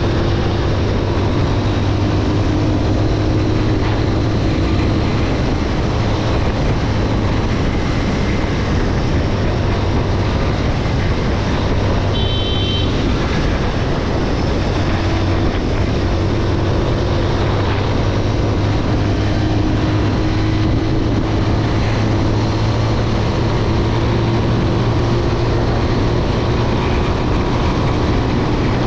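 Motorcycle engine running steadily while riding, mixed with heavy wind and road noise, its note drifting only slightly in pitch. A short high beep sounds about twelve seconds in.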